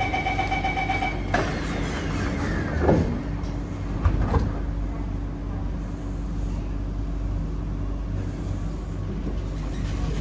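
Metro train door-closing warning beeps, then the sliding saloon doors shut about a second and a half in, followed by a couple of knocks. After that comes the train's steady running hum with a low, even tone.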